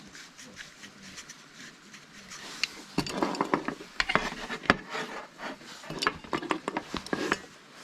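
Sharp knocks, clicks and scraping of things being handled, thickest from about three seconds in.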